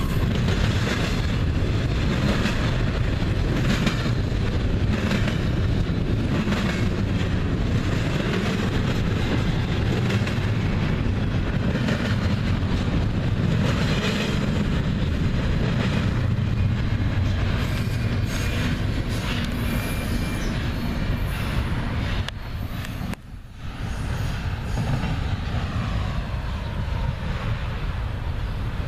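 Freight cars of a double-stack container train rolling past with a steady rumble, the wheels clicking repeatedly over the rail joints. The noise drops briefly about three-quarters of the way through, then carries on.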